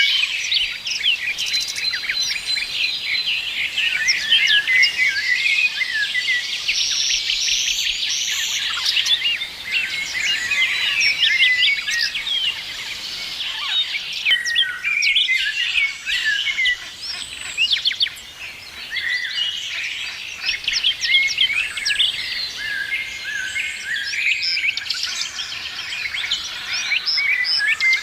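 Many small birds chirping and calling at once, a dense chorus of short high chirps and trills.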